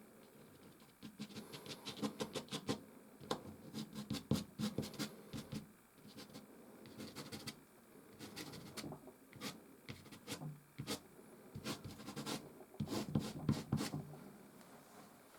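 Soft pastel stick scratching across canvas in quick repeated strokes, in three bursts with short pauses between them.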